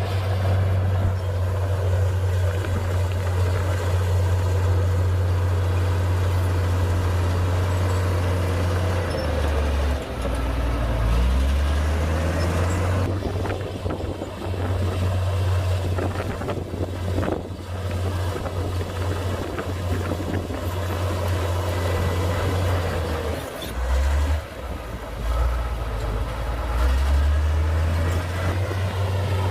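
Diesel engine of a Komatsu D58P crawler bulldozer running hard with a steady low drone. Its pitch dips and shifts about ten seconds in and again near the end, as the load on the engine changes.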